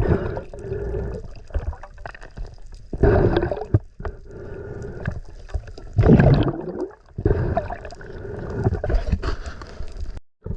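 Sea water gurgling and sloshing in irregular surges every few seconds.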